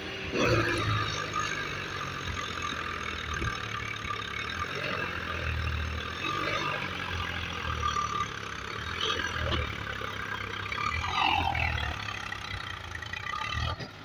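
Diesel tractor engines running under load as a tractor bogged in sand is pushed free, the engine note swelling and easing several times.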